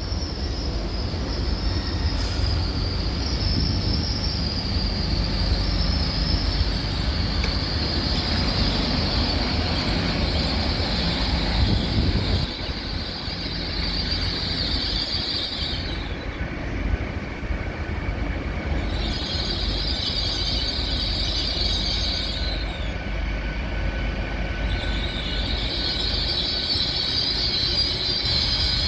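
A train moving through the station, its wheels squealing high-pitched on the rails over a low rumble. There is one long squeal, then it breaks off and comes back twice in shorter spells.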